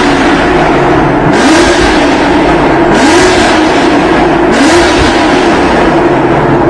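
Lamborghini Aventador's naturally aspirated V12 accelerating hard through the gears: the engine note drops and climbs back three times as it upshifts, with a sharp burst at each shift, then holds high near the end.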